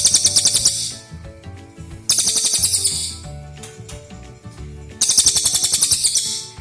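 A bird giving three rapid, high chattering trills, each about a second long, over background music.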